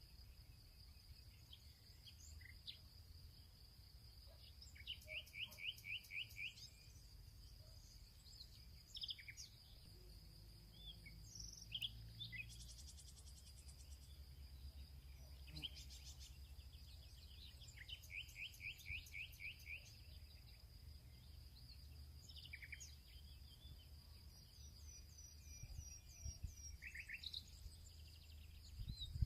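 Faint field ambience of songbirds: scattered short chirps and two rapid trills of about ten notes each, over a steady high-pitched insect drone and a low rumble.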